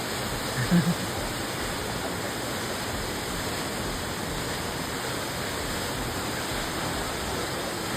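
Waterfall's steady rush of falling water, heard close up from the trail behind it. A brief low voice sound comes under a second in.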